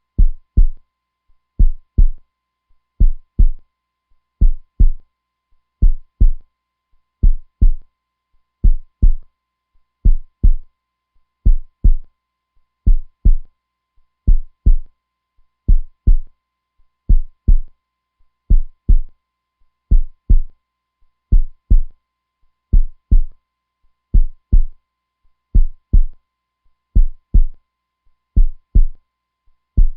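Heartbeat sound, a steady lub-dub of paired low thumps repeating evenly about once every second and a half.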